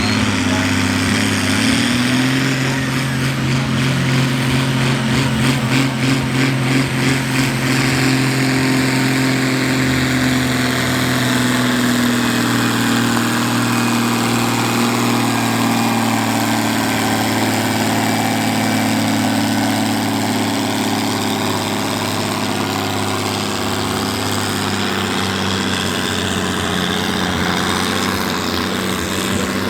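Ford pulling tractor's engine running hard under full load at a steady pitch as it drags the brake sled down the track. A rapid pulsing comes through a few seconds in, and a high whine dips and rises again through the middle of the run.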